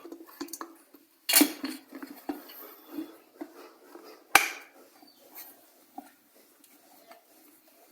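Electric kettle parts and screws being handled during reassembly: scattered clicks and clatter, with a sharp knock a little over a second in and the loudest one about four and a half seconds in.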